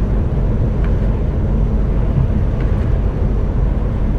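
Steady engine and road noise of an HGV container truck cruising on the motorway, heard from inside the cab as an even low rumble.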